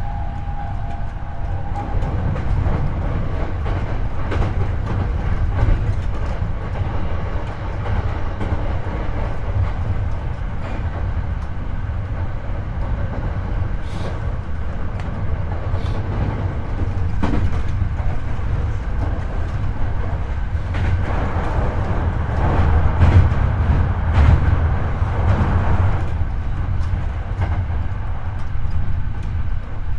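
Hankyu 8300 series electric train running, heard from the cabin floor over a motored bogie: a steady low rumble of wheels and track with frequent clicks from rail joints. A whine fades out in the first couple of seconds, and the rumble grows louder for a few seconds past the middle.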